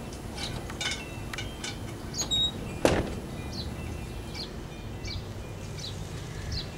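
Small birds chirping in short, scattered chirps, many falling in pitch, over a steady low rumble, with one sharp knock about three seconds in.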